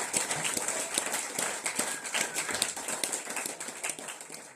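Live audience clapping and applauding at the end of a song, the dense clapping slowly thinning out.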